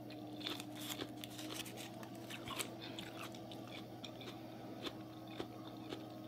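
Close-miked chewing of raw salmon sashimi with a sheet of seaweed (nori), mouth closed: irregular small wet clicks and crackles.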